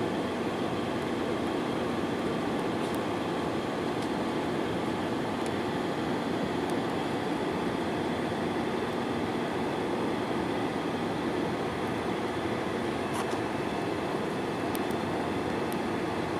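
Steady cabin noise of an Airbus A320-214 in the climb after takeoff: the hum of its CFM56-5B engines and rushing airflow heard from a passenger seat. A few faint clicks come near the end.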